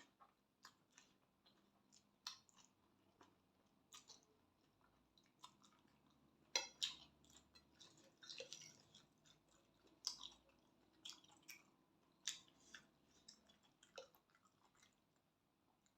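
A person chewing food close to the microphone: faint, irregular wet mouth clicks and smacks, a little louder for a couple of seconds in the middle.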